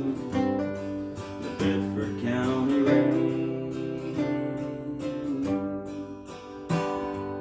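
Acoustic guitar strummed and picked in the instrumental close of a song after the last sung line, with a stronger strum near the end.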